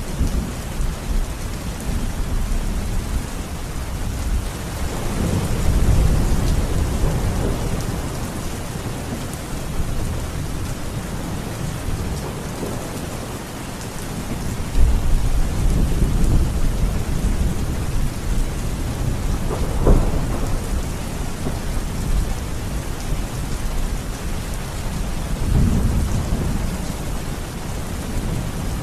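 Steady heavy rain with rolling thunder: low rumbles swell and fade several times, with a sharper crack of thunder about two-thirds of the way in.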